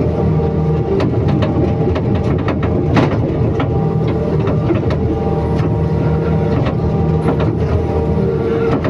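Excavator's diesel engine running steadily, with scattered clicks and knocks on top, the sharpest about three seconds in.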